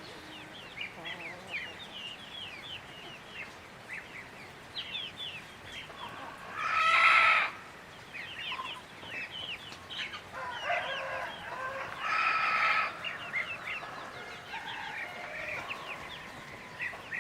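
Domestic fowl calling: short high chirps throughout, and two loud calls of about a second each, one about a third of the way in and one about two thirds in, that sound like a rooster crowing.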